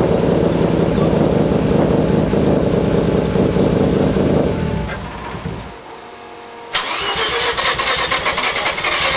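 Bridgeported Mazda RX-7 rotary engine running loud and rich on its first startup, then fading out and dying about five seconds in. After a short lull the engine is cranked again with a whining starter.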